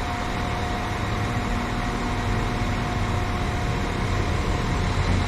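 Train at the platform running with a steady low hum and a constant whine.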